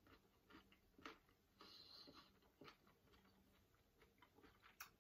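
Faint chewing of a bitten raw carrot: scattered soft crunches and mouth clicks, with a sharper click near the end.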